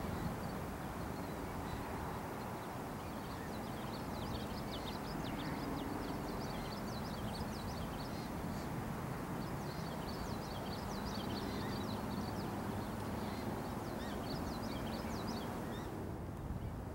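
Many short, high chirps from birds, scattered through a steady low background rumble; the chirps fade out near the end.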